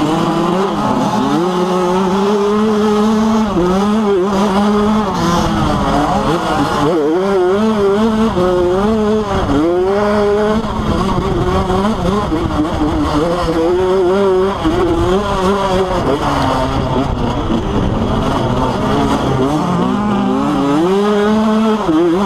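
Motocross dirt bike engines racing, the pitch revving up and dropping back again and again as the throttle is worked, over a steadier engine drone.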